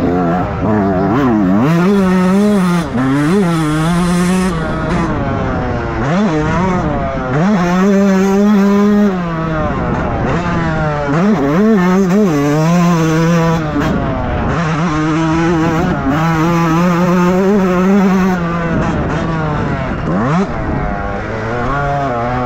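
Motocross bike engine revving hard and backing off again and again, its pitch climbing and dropping with throttle and gear changes, with a sharp rise about twenty seconds in.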